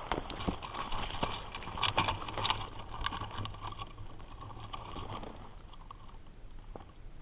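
Footsteps crunching through snow at a walking pace, thinning out and stopping near the end.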